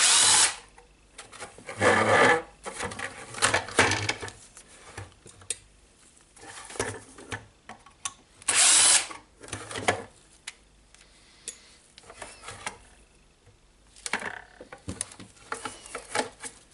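Cordless drill-driver running in several short bursts to back out the screws of the radio's power supply casing, with plastic parts clicking and rattling in the hands between runs.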